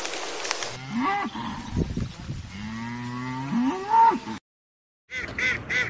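Cattle mooing: one long, drawn-out moo that rises and falls in pitch and is loudest just before it ends, about four seconds in. After a short gap, ducks start quacking rapidly near the end.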